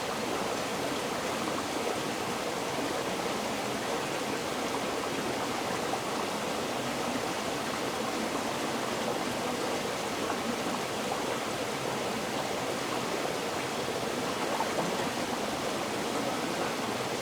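River water flowing steadily over stones, an even rushing with a fine babble.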